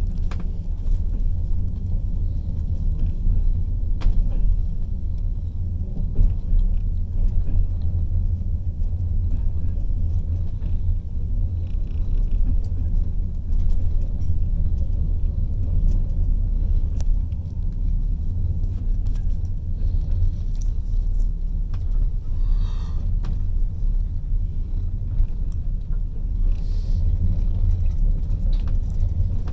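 Steady low rumble of a moving passenger train heard from inside the carriage at the window, with a few sharp clicks from the running gear.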